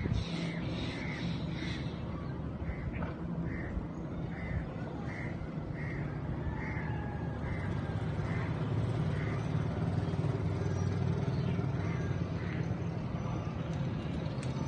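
A bird calling over and over in short, evenly spaced calls, about three every two seconds, which thin out to a few scattered calls after about eight seconds. A steady low hum runs underneath.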